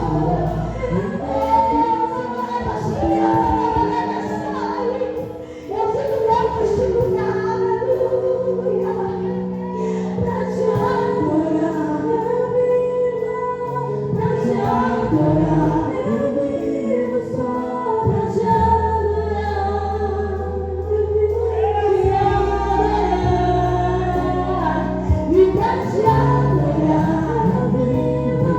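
Gospel worship music: voices singing a melody over instrumental accompaniment with long held low notes.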